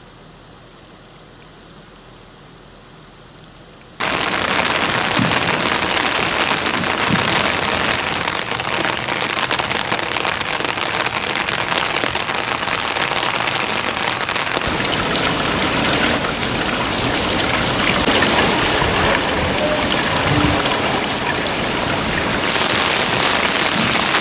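Heavy rain falling, a steady hiss with no voices. It is quieter for the first four seconds and turns suddenly loud after that.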